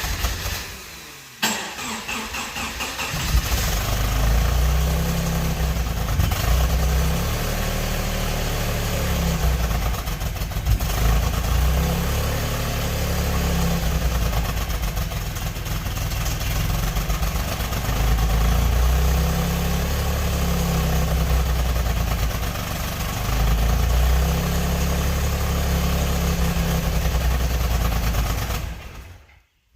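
1992 Subaru SVX's 3.3-litre flat-six engine starting up, catching about three seconds in, then running unevenly with a misfire before stopping near the end.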